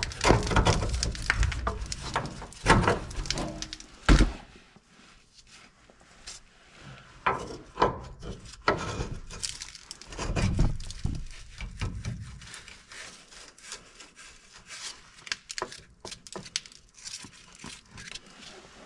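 Irregular knocks, clicks and clatter of hand tools and parts being handled during work on the truck's cab mount. The knocks are loudest and densest in the first few seconds, with a few heavier thuds later on.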